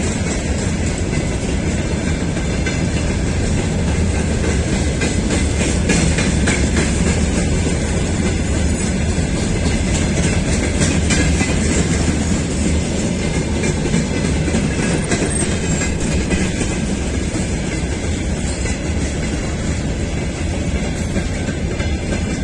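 Freight train wagons rolling past steadily, their wheels clattering over the rail joints, with a continuous low rumble.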